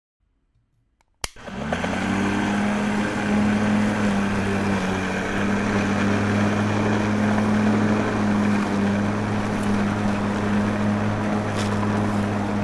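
A small motor switched on with a click about a second in, then running at a steady speed with an even hum.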